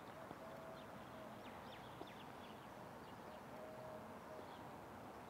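Faint birds chirping, a scatter of quick high notes that slide downward, over a steady outdoor hiss. A faint held tone sounds twice, near the start and again past the middle.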